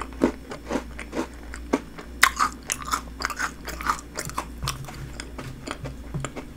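A person chewing a mouthful of crunchy snack bingsu (shaved ice with biscuit and chocolate pieces), with many short crisp crunches coming irregularly.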